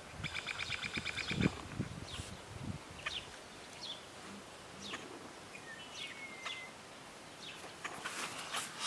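Small birds calling: a fast trill in the first second and a half, then scattered short chirps and a brief whistle.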